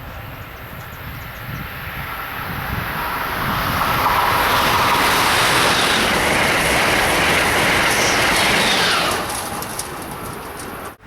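Amtrak train passing at speed: wheel and rail noise builds over about four seconds, stays loud for about five, then fades, and cuts off suddenly near the end.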